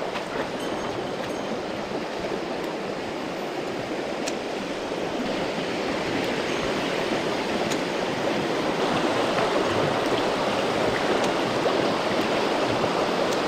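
Steady rush of a mountain stream's flowing water, growing louder after about five seconds.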